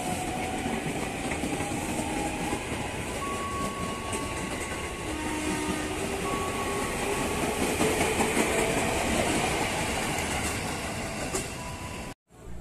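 Train running past on the tracks: steady wheel-and-rail noise with a few held and slowly rising whining tones, growing louder about two thirds of the way through, then cutting off suddenly near the end.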